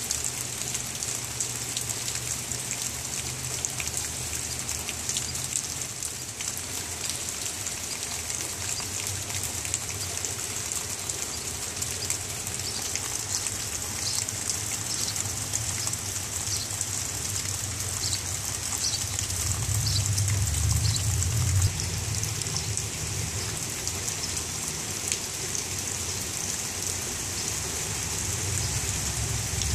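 Steady rain falling on leaves and a wet patio, a dense hiss of drops. A low rumble of wind on the microphone swells about two-thirds of the way through.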